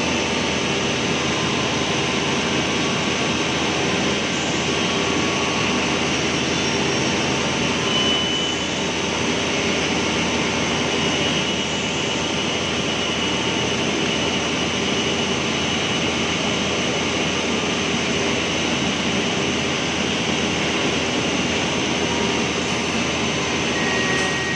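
Woodworking machine running steadily: an even mechanical noise with several steady hums and whines that holds at a constant level throughout.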